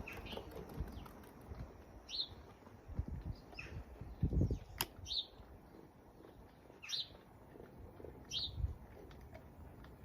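A bird calling outdoors, a short chirp repeated about every one and a half seconds, with a sharp click about halfway through and a few low thumps.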